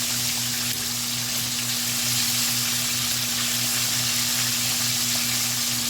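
Battered chicken pieces deep-frying in a pot of hot oil: a steady sizzle, with a steady low hum beneath it. The chicken is near the end of its frying, golden and about ready to come out.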